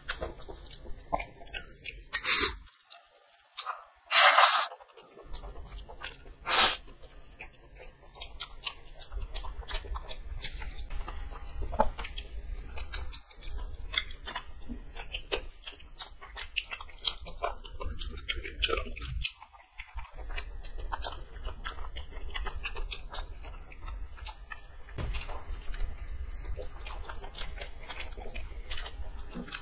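Two people chewing and biting into fried chicken lollipops, close to the microphone, with many small wet clicks. There are three louder, sharper noises in the first seven seconds.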